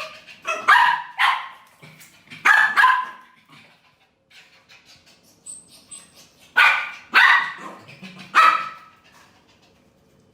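Dog barking loudly in short bouts: about seven sharp barks in three groups, with a pause in the middle.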